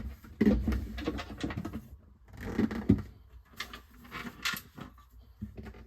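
Plastic refrigerator interior panels and parts being handled and pulled loose: irregular knocks, clicks and scraping.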